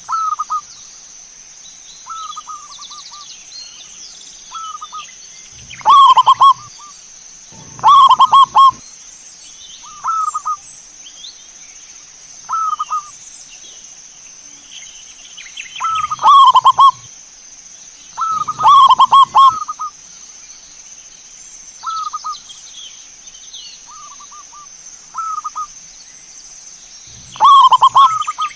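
Zebra doves (perkutut) cooing, with short rolling coo phrases every one to two seconds. Several phrases are much louder and distorted. A steady high whine runs underneath.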